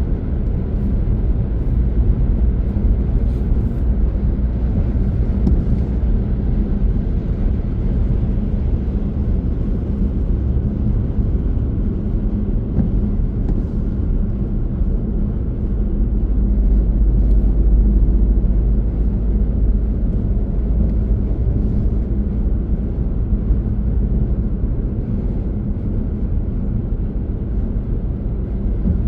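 Car on the move: a steady low rumble of tyres and engine, swelling slightly a little past halfway through.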